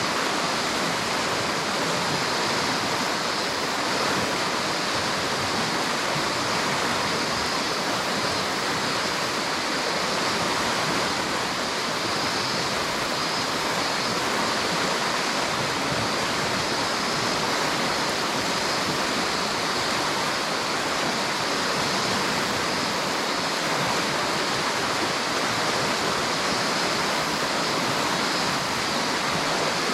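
River water flowing and rushing in a steady, unbroken roar.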